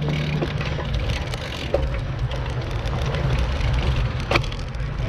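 A motor vehicle engine running steadily with a low hum, with two sharp clicks, one near the middle and one near the end.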